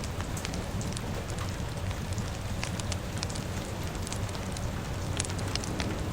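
Rain and a crackling fire heard together: a steady hiss of rainfall with frequent small, sharp pops and crackles scattered through it.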